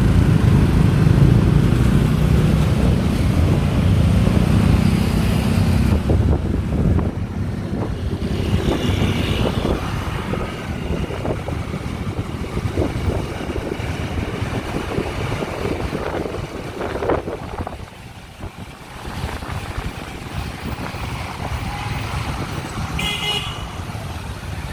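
Riding on a motorbike through city traffic: road and engine rumble with wind on the microphone, loudest for the first few seconds and then easing off. Vehicle horns toot briefly now and then, once near the end.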